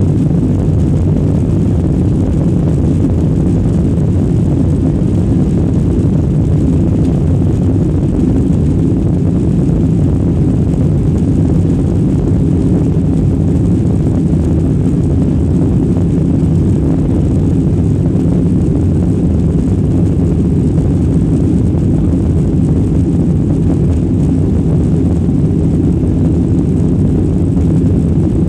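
Ryanair Boeing 737 airliner's jet engines running at a steady, loud, low rumble during takeoff.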